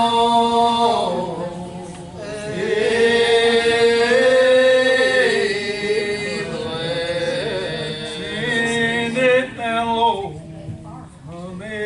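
Singing: a long held note ends about a second in, then a new sung phrase begins and trails off after about ten seconds.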